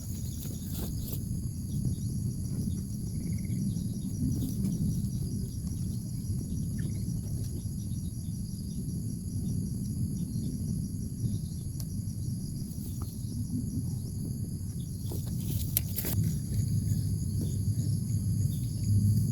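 Insects chirring steadily and high-pitched over a low, steady rumble, with an occasional faint short bird chirp and a few soft clicks near the end.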